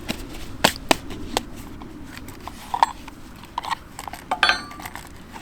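Camp cooking utensils being handled: several sharp knocks and taps, then a short ringing clink near the end.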